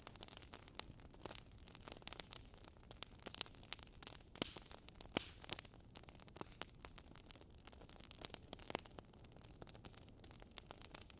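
Wood fire crackling in a fireplace: irregular sharp pops and snaps over a faint steady hiss, with a couple of louder pops near the middle.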